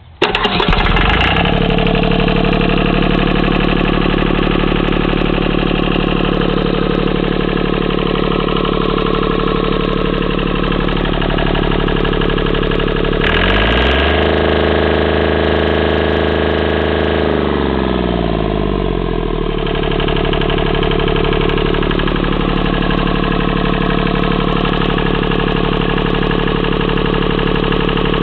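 Deutz three-cylinder diesel engine starting and settling into a steady idle, then revved up for a few seconds around the middle of the clip and dropping back to idle.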